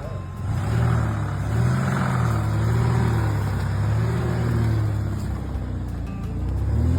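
Car engine running, its revs rising and falling several times.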